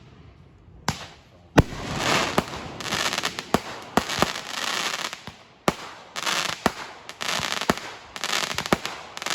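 Fireworks going off: a string of sharp bangs with dense crackling between them, the loudest bang about a second and a half in, then a brief lull and a second run of bangs and crackle from about six seconds.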